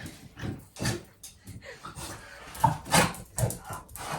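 A dog making a few short, quiet vocal sounds, spaced apart with gaps between them.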